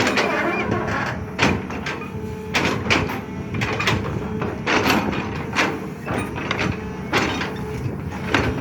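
SANY excavator's diesel engine running steadily under load while digging, with repeated sharp clanks and scrapes of the bucket and metal against earth and rock, about one every second.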